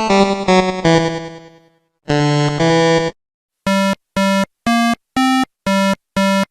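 Synthesizer music: a few sustained chords that die away, one more short chord, then a run of short, evenly spaced beeping notes about two a second, the pitch shifting slightly from note to note.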